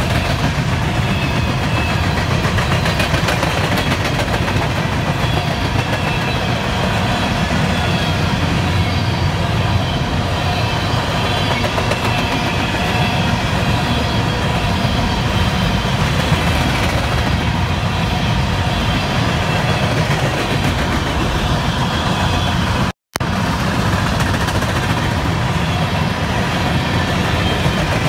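CSX covered hopper cars of a grain train rolling past, a steady heavy rumble of steel wheels on rail with a faint, high, wavering squeal above it. The sound cuts out for a split second about three-quarters of the way through.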